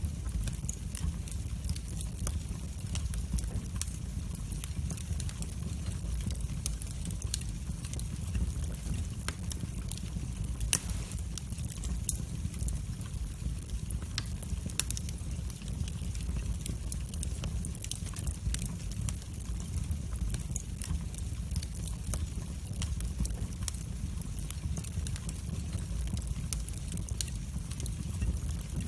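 Wood fire burning in a fireplace: a steady low rumble of the flames with frequent sharp crackles and pops, one louder pop about eleven seconds in.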